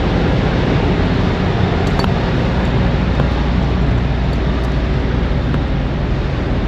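Diesel engine running steadily at idle: an even, low rumble.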